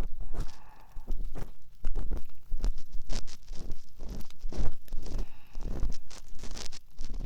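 An ear pick scratching and rubbing inside the ear of a binaural dummy-head microphone, in quick irregular strokes, as in ear-cleaning ASMR.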